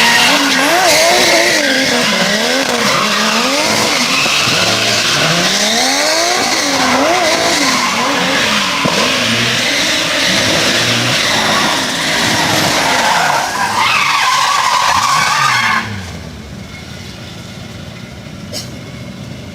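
Drift car engine revving up and down again and again as the tyres screech through a slide. About sixteen seconds in, the sound cuts off abruptly, leaving a much quieter background.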